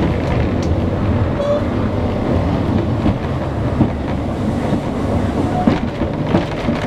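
Botchan Ressha, Iyo Railway's diesel-powered replica steam train, pulling slowly out of the station, heard from inside its carriage. A steady low rumble with scattered knocks and clacks of the wheels on the rails.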